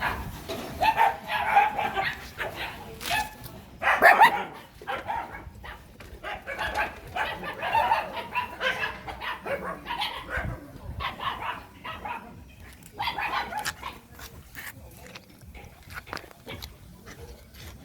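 A puppy barking and yipping in repeated short bouts, loudest about four seconds in, with short clicks in between.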